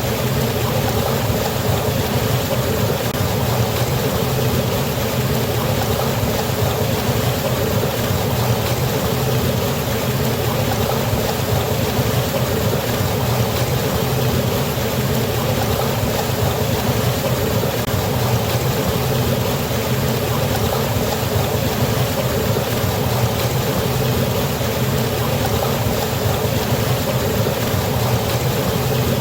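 A waterfall with water pouring and rushing steadily, with a strong low rumble under the hiss and no change in level.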